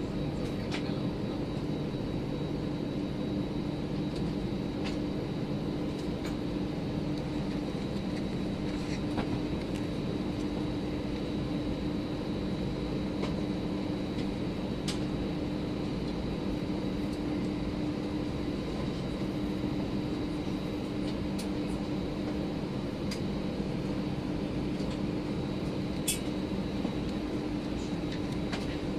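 Airbus A319 jet engines at idle heard from inside the cabin: a steady hum with a fainter high whine, and a few faint clicks.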